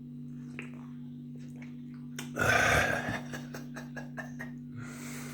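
A man's short, loud throaty noise about two seconds in, then a scatter of small clicks and taps, over a steady low hum.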